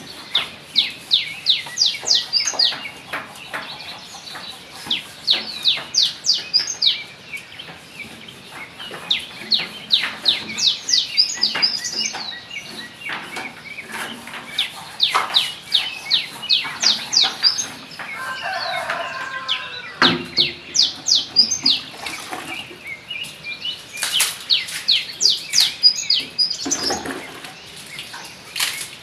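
Birds singing: runs of quick, sharp, falling chirps, several a second, coming in bursts of a few seconds at a time. A brief lower-pitched sound comes about eighteen seconds in.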